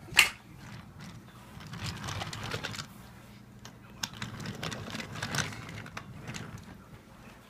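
Toy trains and track being handled and pushed about: a sharp knock just after the start, then irregular clicking and rattling.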